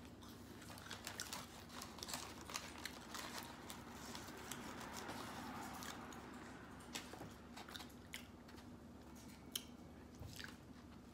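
A person chewing and biting into fried chicken close to the microphone, with many short crisp crunches and clicks over a faint steady hum.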